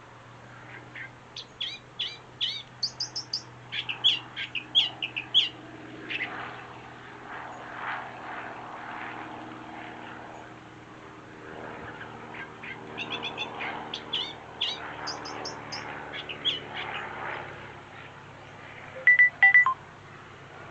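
Wild birds chirping and singing in two bouts of quick, high, repeated notes, over a steady low hum. Two short, sharp high notes come just before the end.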